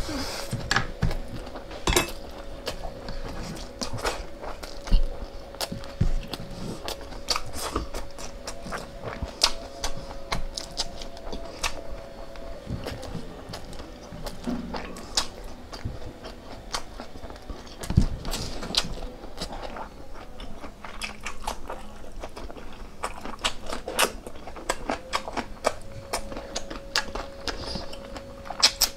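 Close-miked eating: chewing and biting with many irregular crunchy clicks.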